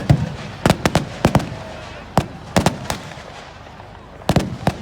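Fireworks and bangers going off in a rapid, irregular string of about a dozen sharp bangs, some in quick pairs. There is a lull past the middle, then a last cluster near the end.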